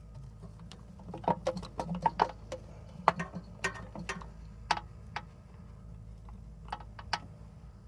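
Ratchet wrench and metal tools clicking irregularly while the bolts of a replacement starter motor are started and run in under the car.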